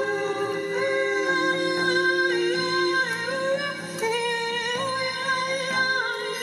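Improvised wordless solo voice singing long held notes that slide slowly up and down, over a bed of steady sustained tones.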